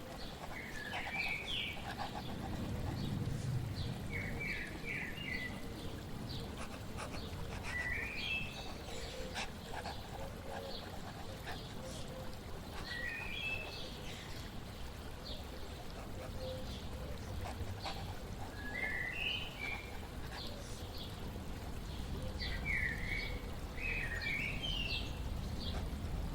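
Small songbird chirping short, quick phrases that repeat every few seconds over the steady rush of flowing water.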